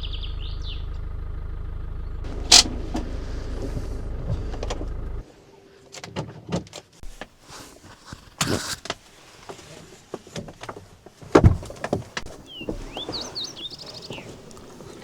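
Motorhome engine idling with a steady low hum, switched off about five seconds in. Then clicks and knocks follow, and birds chirp briefly near the end.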